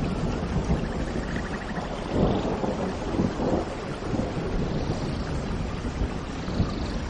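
Steady heavy rain with a deep rumble of thunder underneath, and faint bird chirps now and then.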